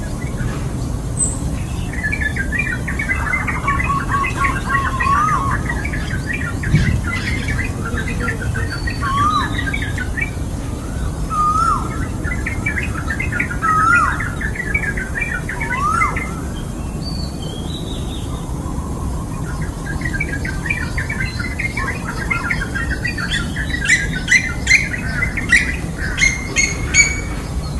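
Wild birds calling. Bursts of rapid chattering chirps come and go, broken by several short whistled notes that swoop upward, and a run of sharp, clicky chip notes comes near the end.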